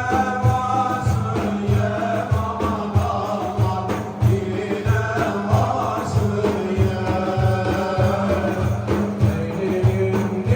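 Turkish Sufi ilahi (dergah hymn): chanted singing over a held low drone, with a steady low beat a few times a second.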